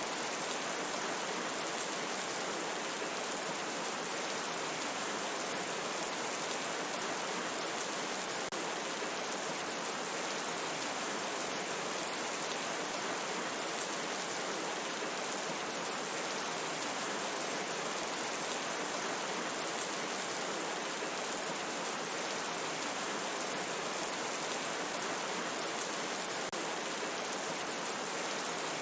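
Steady rain falling in a forest: an even, unbroken hiss with no distinct drops, thunder or other events.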